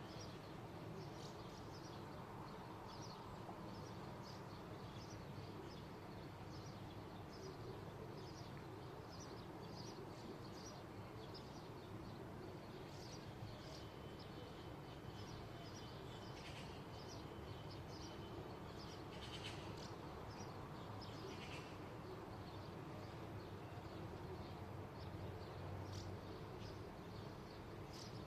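Small birds chirping in short, high calls again and again over a faint, steady low rumble of outdoor background noise. A thin, steady high tone is held for about five seconds midway.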